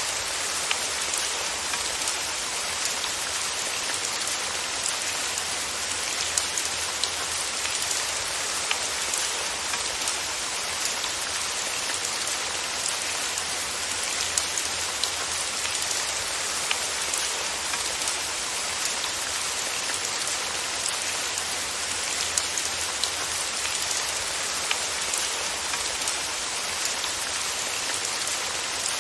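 Steady rain falling, a dense even hiss with frequent sharp drop ticks scattered through it.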